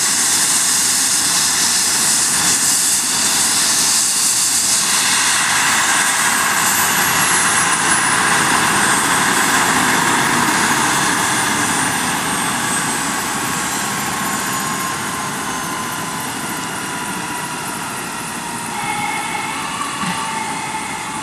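Eurocopter EC135 twin-turbine helicopter running close by, a dense rushing rotor and turbine noise with a high whine that falls slowly in pitch. The level eases off in the second half, as the helicopter winds down.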